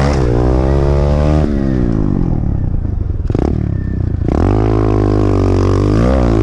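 Pit bike engine being ridden hard round a dirt track: it revs up under throttle, drops off into a rougher, rattly off-throttle stretch in the middle, then revs up again about four seconds in.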